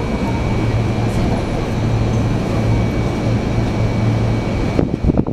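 Running noise heard inside a Sotetsu 8000 series electric train, a set refitted with a Hitachi IGBT-VVVF inverter: a steady rumble with a low hum and a thin steady high tone. The noise cuts off abruptly near the end, followed by a few sharp clicks.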